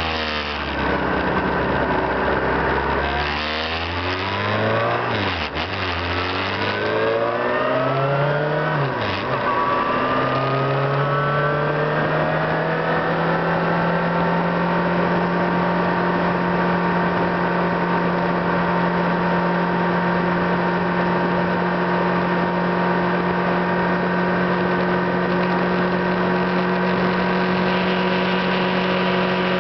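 Car engine accelerating through its gears: the engine note climbs and drops back several times as it shifts up, then settles into a steady note at cruising speed from about twelve seconds in.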